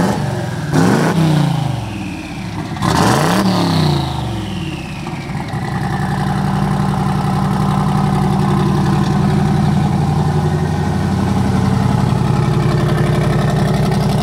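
Twin-turbo LS V8 in a 1965 Chevy C10 blipped three times in quick succession, a falling whistle following the last rev as the turbos spin down, then idling steadily.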